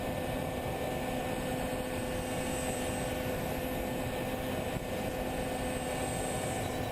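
Steady mechanical hum at a constant pitch over a low rushing noise, unchanging throughout.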